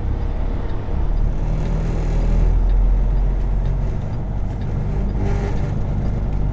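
Semi truck's diesel engine pulling away at low speed. Its note steps up about a second and a half in and drops back near four seconds in.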